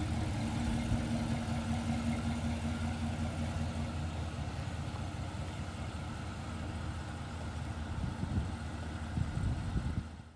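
A 1972 Chevrolet El Camino's engine running steadily at low speed as the car rolls slowly on its new wheels. The sound fades out at the very end.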